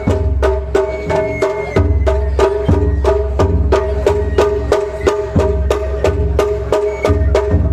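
Japanese festival music (matsuri-bayashi) with drums and percussion struck in a steady, fast rhythm of about three to four beats a second, over a steady ringing tone.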